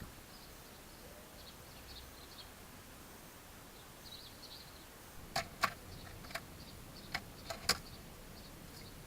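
Faint, short, high bird chirps scattered throughout. Six sharp clicks come in a cluster in the second half.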